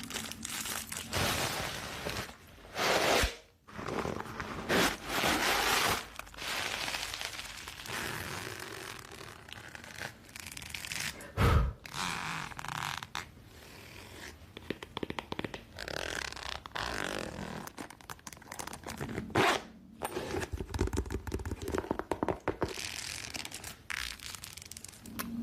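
Close-miked ASMR trigger sounds: an irregular run of scrapes, taps and crinkly rustles, each lasting from a split second to a couple of seconds.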